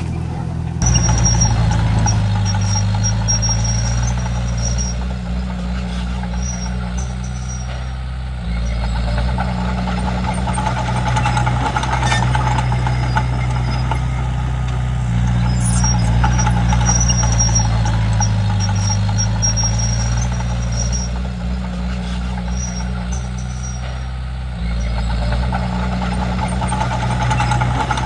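Komatsu D31P bulldozer's diesel engine running under working load, its note dipping and rising as the load changes, and getting louder about a second in.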